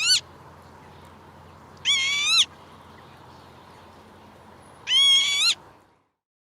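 Northern lapwing calling three times, a short rising, slightly wheezy call about every two and a half to three seconds, over a faint steady hiss.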